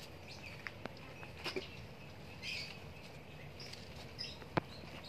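Birds chirping here and there in the background, with a few short, light clicks, one near the end.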